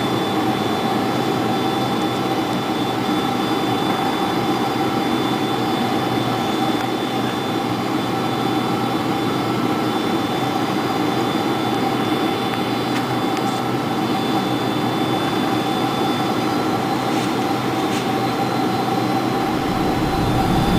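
Cabin noise inside a Boeing 747-400 on its landing approach: the steady rush of jet engines and airflow, with a few steady whining tones. A deeper low rumble comes in near the end.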